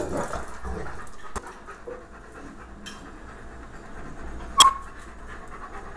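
A dog panting, with a single sharp, ringing clink like metal or dishware being struck about four and a half seconds in.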